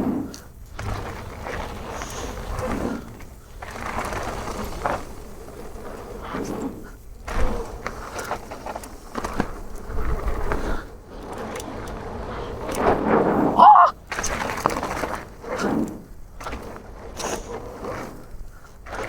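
Mountain bike rolling fast over a rough dirt trail: tyre noise swelling and fading, with knocks and rattles from the bike over bumps and wind on the microphone. A brief pitched squeal or shout comes about 13 seconds in and is the loudest moment.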